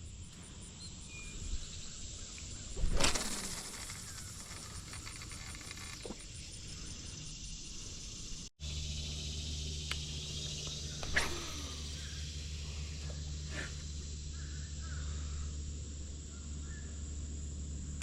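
Outdoor pond ambience with a brief loud noise about three seconds in and a smaller one later. After a sudden dropout partway through, a steady low hum sits under the background.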